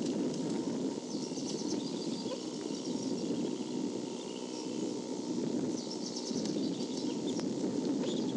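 Steady low outdoor background noise with two short runs of rapid, high bird chirping, the first about half a second in and the second about six seconds in.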